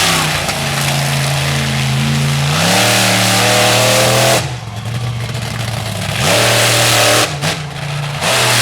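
Monster truck V8 engine revving hard under heavy throttle. The pitch climbs about three seconds in, and the truck lifts off the throttle about four seconds in and again briefly near the end between bursts of full power.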